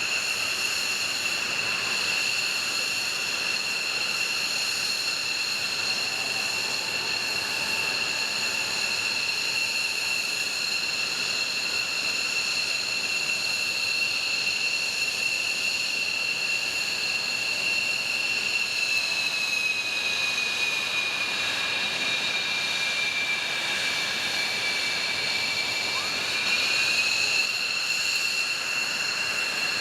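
F-15J fighter's twin Pratt & Whitney F100 turbofan engines running at low power during taxi-out, a steady high-pitched jet whine. The whine sags a little in pitch about two-thirds of the way through, then climbs back with a brief rise in loudness near the end as power is added.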